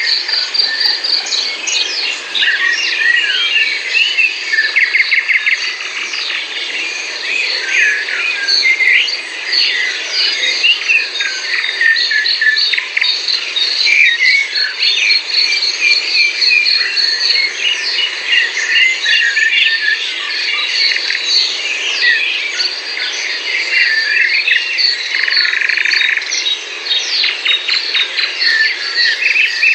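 Many songbirds singing and calling at once in quick chirps and whistles, over a steady high trilling of insects.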